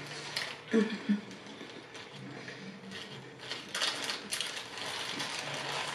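Close-up eating sounds: a burger being chewed, with irregular clicks and crackles of mouth sounds and its paper wrapper being handled. Two short hum-like mouth sounds about a second in.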